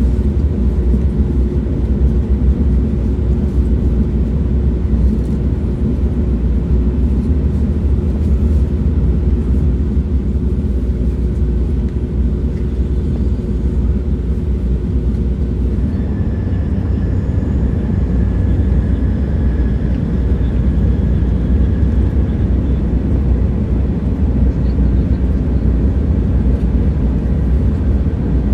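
Moving train: a steady low rumble with a steady hum that stops about halfway through, after which a faint high whine comes in for a few seconds.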